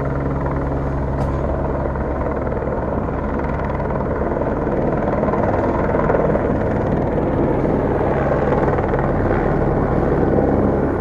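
Helicopter hovering overhead: the steady rotor beat and turbine drone.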